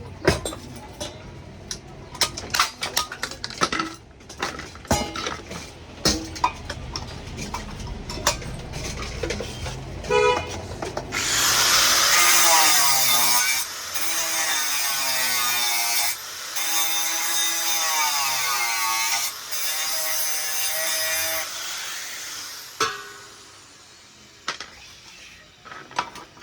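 Repeated clicks and knocks of tools on hard parts, then a high-pitched power tool runs for about ten seconds in four or five stretches with short breaks, its pitch wavering as it works.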